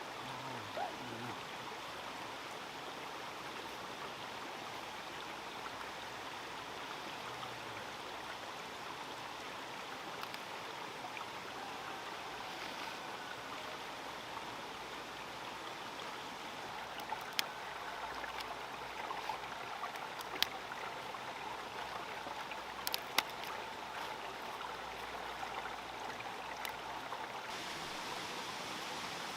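Steady rush of running water, like a stream, with a few sharp clicks or knocks in the second half.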